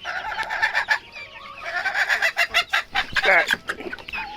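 Young bantam chickens clucking and squawking in a pen, with a louder call a little past three seconds in.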